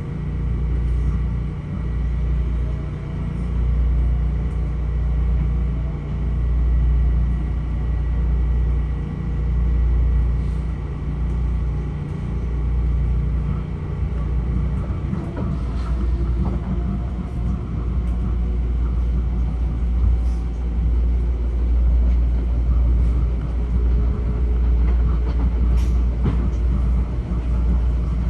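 Metro-North M7A electric multiple-unit railcar running between stations, heard inside the car: a steady low rumble with faint tones that slide in pitch, and a few sharp clicks from about halfway through.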